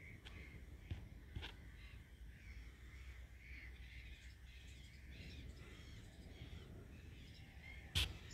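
Barn swallow chicks calling faintly and continuously with raspy, wavering calls, with a couple of small clicks about a second in and a sharp click near the end.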